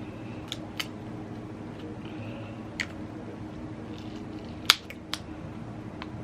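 Crab leg shells cracking and snapping by hand in a handful of sharp clicks, the loudest about three-quarters of the way through, over a steady low hum.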